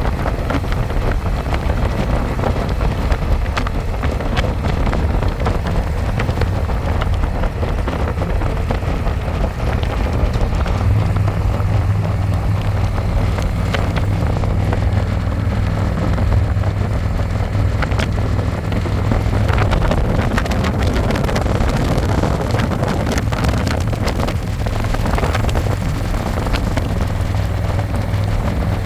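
Harley-Davidson Electra Glide's V-twin engine running while riding, with wind buffeting the microphone. The low engine note grows stronger and steadier about ten seconds in.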